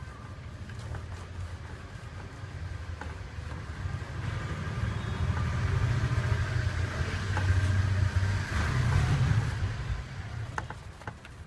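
A vehicle engine running, growing louder through the middle and fading again, with a few sharp clicks near the end.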